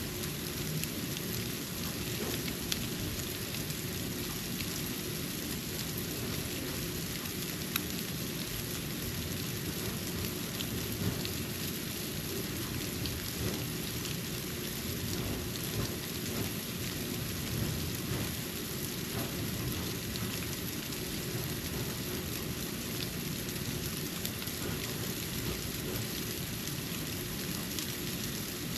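Snow falling: a steady soft hiss over a low rumble, with a few light ticks of flakes landing now and then.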